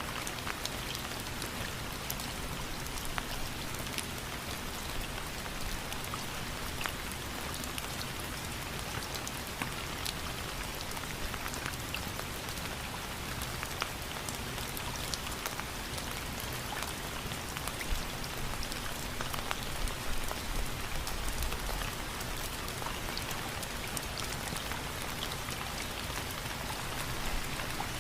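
Steady rain falling, with single drops ticking sharply on a surface among the even hiss.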